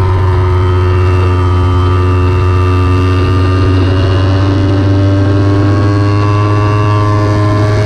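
Kawasaki Ninja 300's parallel-twin engine running hard on track, heard close up on the bike, its pitch drifting slowly up and down with no break.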